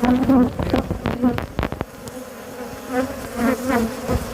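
Africanized honey bees ("killer bees") buzzing in a dense swarm around an opened hive, a steady hum with single bees sweeping up and down in pitch as they fly close past. A few sharp clicks sound in the first two seconds.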